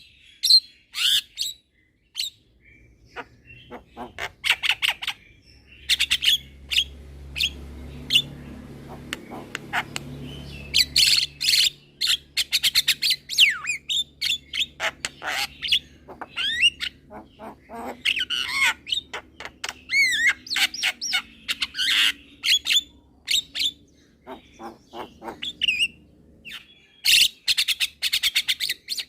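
Young Javan myna calling in bursts: runs of sharp clicks and harsh chattering squawks, mixed with a few whistled notes that bend in pitch, with short pauses between phrases.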